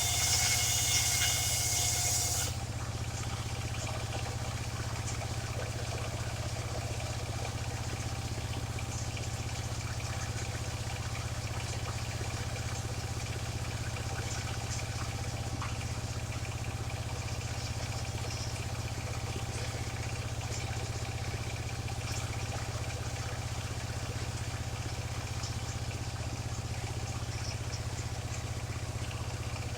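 Engine of a mobile circular sawmill running steadily with the saw blade spinning free, not cutting. For the first two seconds or so a fainter hiss carries on from the end of a cut, then stops, leaving only the even hum of the engine.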